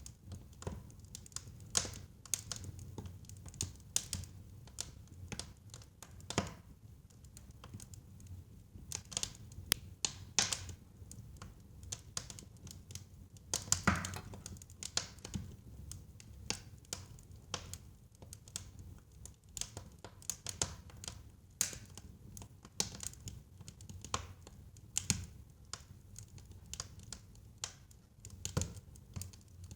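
Wood fire burning in a fireplace: irregular crackles and pops over a steady low rumble, with one louder pop about fourteen seconds in.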